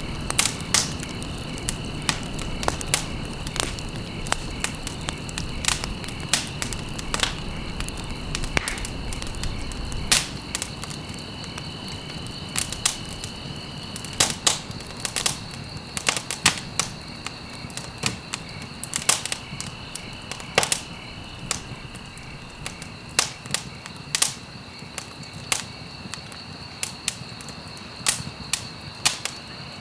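Wood fire burning in a fireplace, crackling with sharp, irregular pops, sometimes single and sometimes in quick clusters. A low rumble of flame underneath grows fainter about halfway through.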